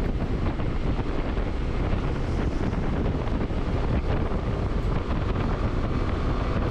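Heavy wind buffeting on the microphone of a moving motorcycle, with steady road and engine noise underneath.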